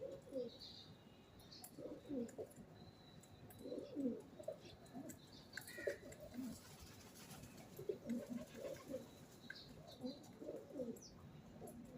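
Pigeons cooing over and over in short, soft, low phrases, with a few faint high chirps from small birds.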